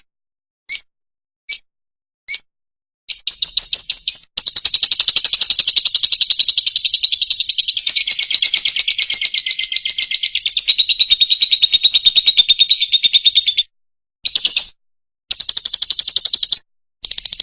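Fischer's lovebird singing: four short high chirps, then a long rapid chattering trill of about ten seconds, then shorter bursts of the same trill near the end.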